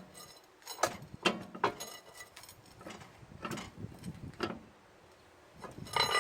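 Metal tools and parts clinking and knocking at an irregular pace during truck tire work, ending with a louder clank of struck metal that rings on briefly.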